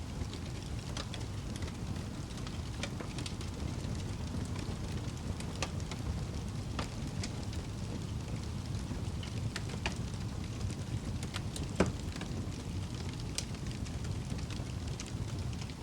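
Fire burning in a fireplace: a steady low rumble with scattered crackles and pops, one sharper pop about three-quarters of the way through.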